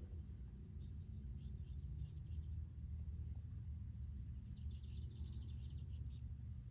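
Steady low rumble of outdoor background noise, with birds chirping faintly now and then.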